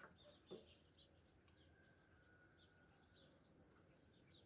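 Faint birdsong over near silence: scattered short, high chirps from small birds, with one thin held note in the middle. A soft knock about half a second in.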